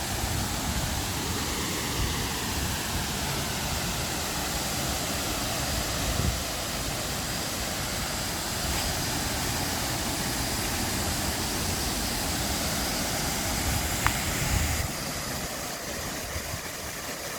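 Waterfall: a steady, even rush of falling water, dropping a little in level near the end.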